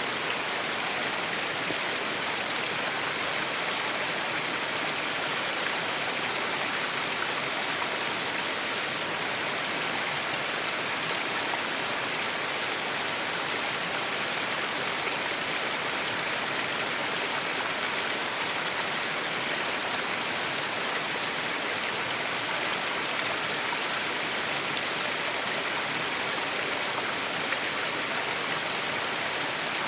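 Waterfall: falling water splashing steadily onto rocks, an even rushing noise with no breaks.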